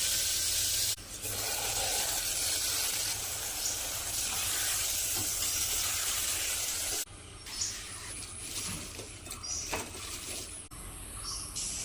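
Loud, steady hiss that cuts off suddenly about seven seconds in, leaving a quieter outdoor background with a few short chirps.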